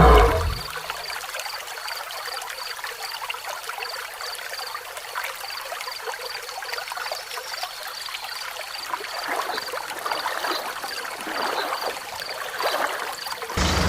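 Water flowing and trickling along a miniature model canal, a steady splashing hiss, with a faint high ticking about twice a second.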